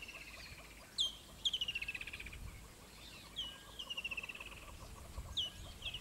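Wild bird calling in the bush, about three times: each call is a sharp note falling in pitch, then a fast rattling trill that slowly drops. Underneath runs a faint, steady ticking chorus.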